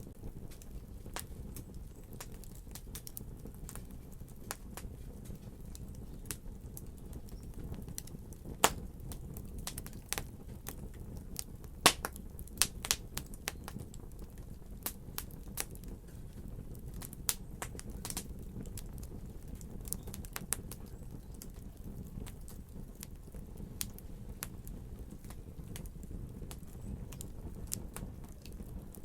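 Wood fire crackling: irregular sharp pops and snaps over a steady low hiss of burning, with a few louder pops about nine and twelve seconds in.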